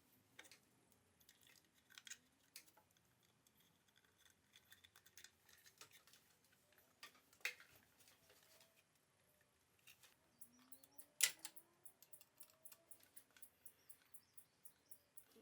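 Near silence: room tone broken by scattered faint clicks. In the last few seconds there is a faint, regular ticking about three times a second.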